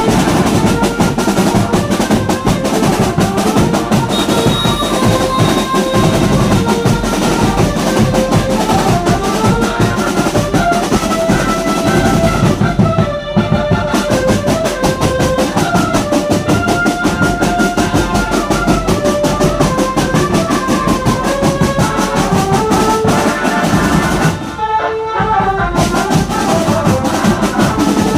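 Brass band with drums playing: a brass melody over steady, rapid drumming, with two short breaks in the drumming about 13 and 25 seconds in.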